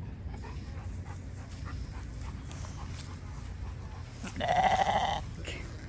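A St. Croix sheep bleats once, a single call about a second long, about four seconds in, over a low background rumble.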